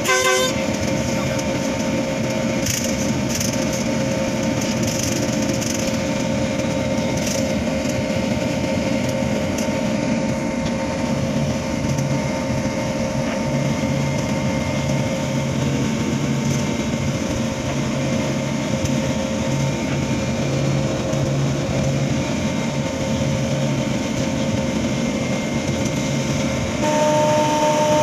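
Moving train heard from on board: a steady running rumble and rattle with a constant whine over it. Near the end it grows a little louder and the whine changes pitch.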